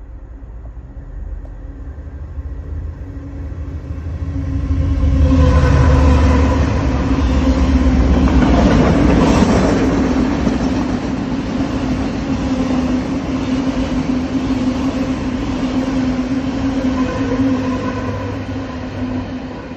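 Yellow engineering train passing close by on the railway: a rumbling rush with a steady drone through it, building over the first few seconds, loudest about a third of the way in, then holding as the long train goes past.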